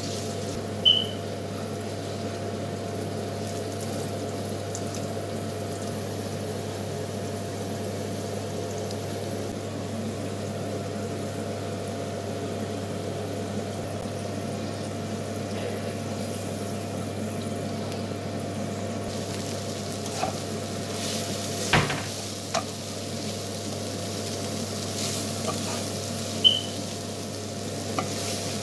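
Potato cubes frying in hot oil in a wok: a steady sizzle over a low hum, with a few sharp knocks of a wooden spatula on the pan about 20 seconds in and two short high squeaks, one near the start and one near the end.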